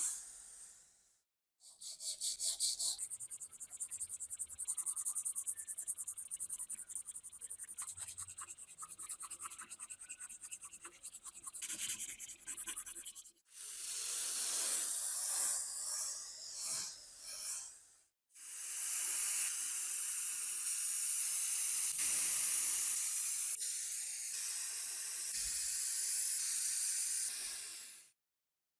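Metal restoration work: fast, evenly repeated rasping strokes, then a stretch of rougher scraping noise, then a steady hiss for about ten seconds that cuts off abruptly near the end.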